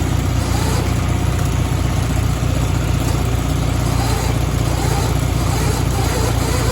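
Small garden tractor engine running steadily at a constant speed.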